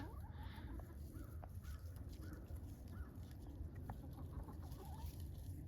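Chickens clucking softly: a scattering of short, quiet calls, over a low steady rumble.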